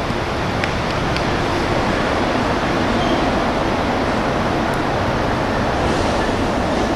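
Steady rushing background noise at a ball field, with a couple of faint ticks about half a second and a second in.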